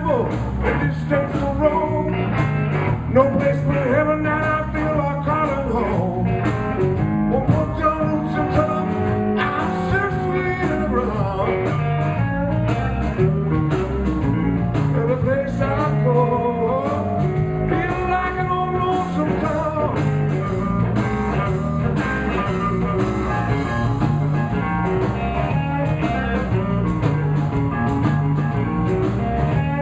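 Live blues band playing an instrumental break: a lead guitar line with bent notes over a steady bass and drum beat.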